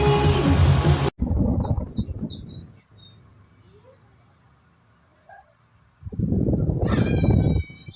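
Music cuts off suddenly about a second in, then birds chirping in short high calls, over two stretches of loud low rumbling noise.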